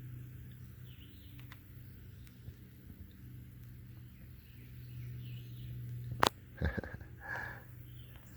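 Faint, scattered bird chirps over a steady low hum. About six seconds in comes a sharp click, the loudest sound, followed by a few brief noises.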